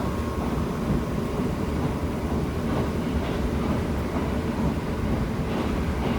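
KiHa 75 diesel multiple unit running at speed, heard from inside the passenger car: a steady low rumble of engine, wheels and rails, with a few faint clicks.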